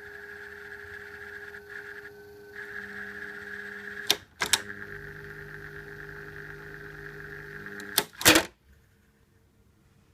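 1980 Daiken (Seibu Denko) EK-2525G ventilating fan running with a steady hum and whine. Two clicks of its rotary switch about four seconds in change the running sound to another setting. Two louder clicks near the end switch it off, and the sound stops abruptly.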